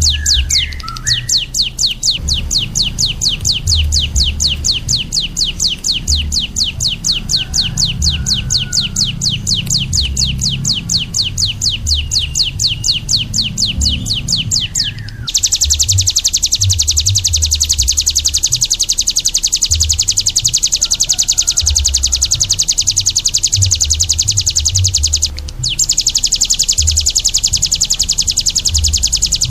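A caged songbird giving a long, fast run of evenly repeated high chattering notes, several a second. Halfway through it breaks off and starts again louder and denser, with a short break near the end. A low, irregular thudding runs underneath.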